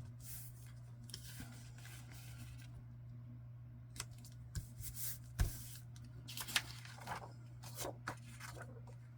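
Paper and card being handled on a work table: scattered rustles and light taps, the sharpest about five and a half seconds in, over a steady low hum.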